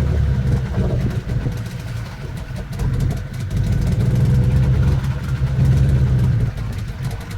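Boat engine running steadily, a low hum.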